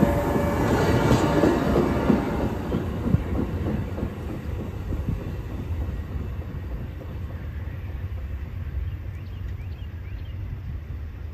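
A train rolling past on the rails, its wheels clacking over the rail joints, the sound fading steadily as it moves away.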